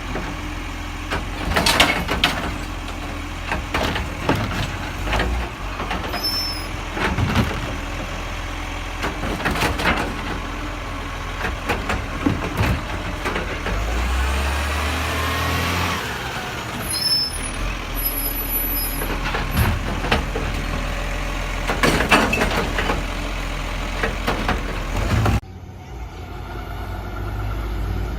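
Garbage truck running, with a steady low engine rumble and repeated sharp knocks and clanks, and a pitch that rises and falls briefly about halfway through. The sound drops suddenly near the end.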